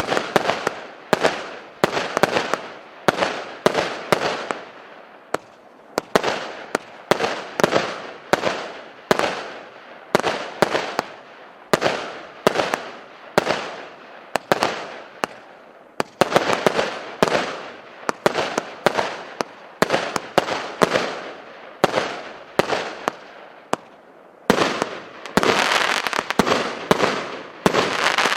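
Orient 'Rumba' firework battery (cake) firing shot after shot, roughly one to two sharp bangs a second, each followed by a fading crackle of the bursting effects. Near the end the shots come thicker and overlap.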